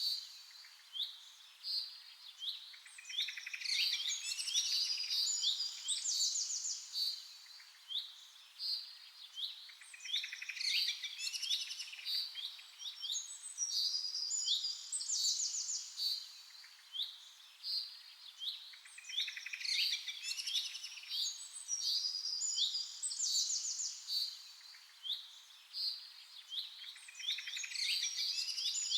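Several songbirds chirping and singing at once: quick repeated chirps, fast trills and short down-slurred notes, swelling and easing every few seconds.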